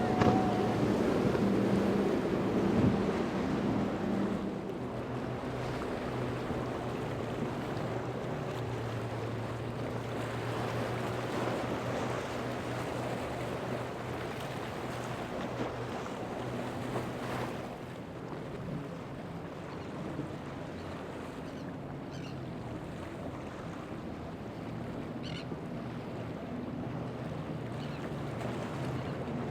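A boat engine running steadily, over the wash of waves and wind buffeting the microphone; it is louder for the first few seconds, then settles lower.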